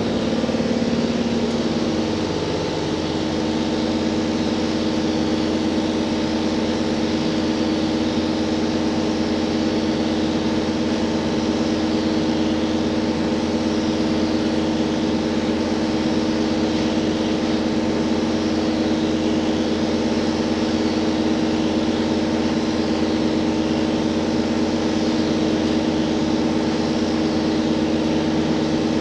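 Diesel engine and generator of a JR Hokkaido H100 DECMO diesel-electric railcar running at a steady speed, heard inside the passenger cabin: an even hum of several held tones over rolling noise, settling to a constant pitch in the first couple of seconds.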